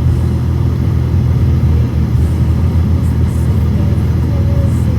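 Steady low rumble of a car driving, heard from inside the cabin through a dash cam. A faint held tone comes in near the end.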